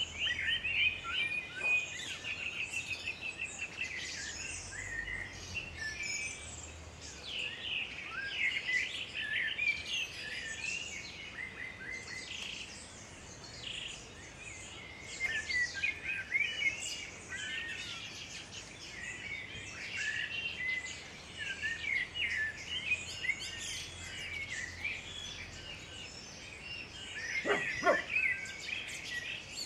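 Several songbirds singing and calling over one another, with quick chirps and trills throughout. Near the end, one louder, lower call slides down in pitch.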